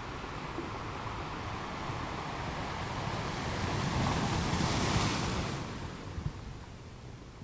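Rough, choppy sea surf, swelling to a loud wash about two-thirds of the way in and then dying away, with wind buffeting the microphone.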